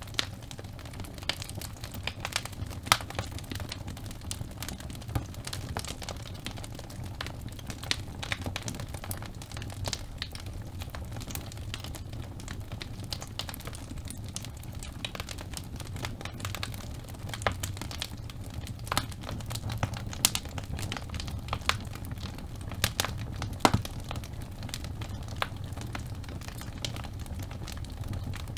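Wood fire burning in a fireplace: steady low rumble of the flames with frequent irregular sharp crackles and pops from the burning logs.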